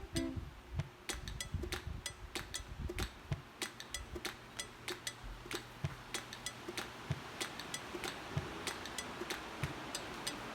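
Irregular light clicks and taps, several a second, over a faint hiss, with a low steady hum for a few seconds in the middle.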